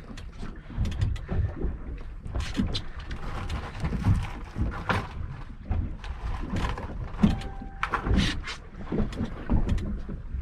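Irregular knocks and thumps of handling on a small fishing boat over a low rumble, with a brief faint steady tone about two-thirds of the way through.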